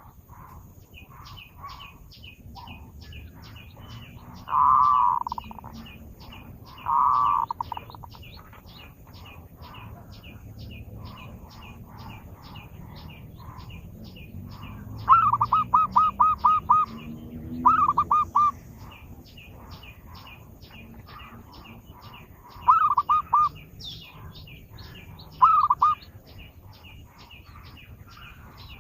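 Zebra dove (perkutut) lure song: bursts of rapid staccato cooing notes, the longest a run of about seven notes near the middle. Under it runs a steady train of thin, high chirps about three a second.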